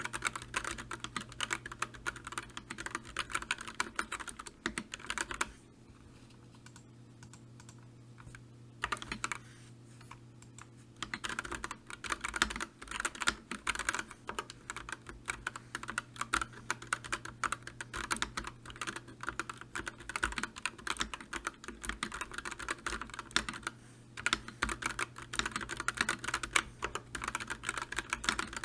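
Rapid, continuous typing on a computer keyboard, the keys clicking densely. The typing stops for about three seconds about five seconds in, then resumes.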